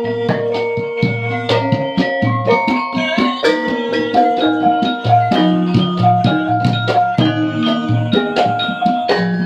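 Javanese gamelan ensemble playing in rehearsal: struck metallophones ring out in interlocking notes over a steady beat of low drum strokes.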